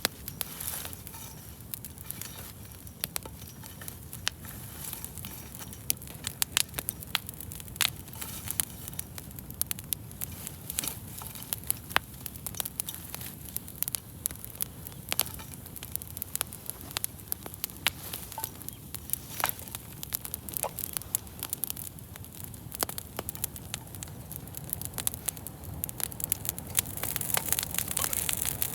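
Wood campfire crackling, with frequent irregular sharp pops over a low, steady rushing hiss. The hiss grows louder near the end.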